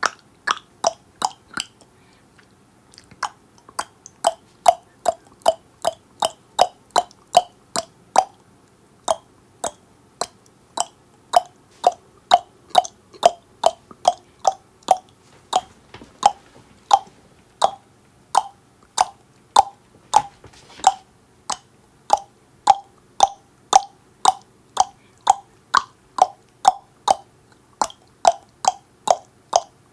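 Tongue clicking: a long run of sharp mouth clicks, about two a second, with a brief pause about two seconds in.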